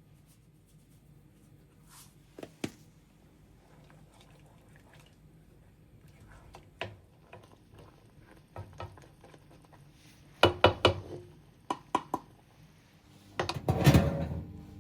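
Kitchen handling sounds: scattered light clicks and clinks of utensils and dishes, a quick cluster of sharp clicks about ten to twelve seconds in, then a louder, noisier stretch near the end.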